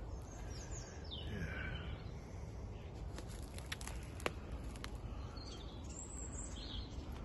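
Birds chirping in short high calls, once near the start and again about six seconds in, over a steady low outdoor background hum, with a few light clicks, the sharpest about four seconds in.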